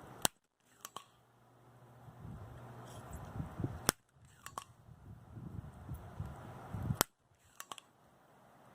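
Three sharp clicks about three and a half seconds apart, each followed by two fainter ticks, with low rustling handling noise between. These are hands and tools at work on a car amplifier's wiring and connectors.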